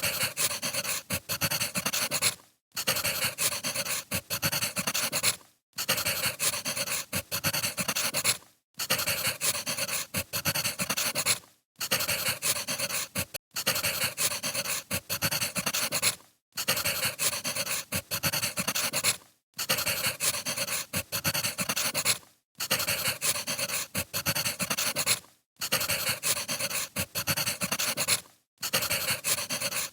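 Crackling of burning firewood, a dense run of small pops and snaps. It drops out briefly about every three seconds, like a short recording played on loop.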